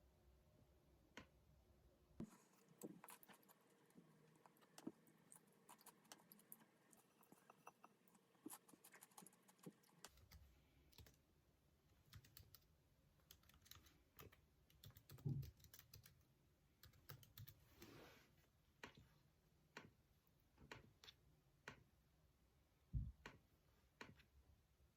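Faint typing on a computer keyboard: quick, irregular key clicks, with a couple of louder knocks.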